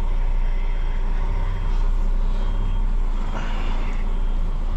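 Truck's diesel engine running steadily at low revs, heard from inside the cab as the truck reverses slowly.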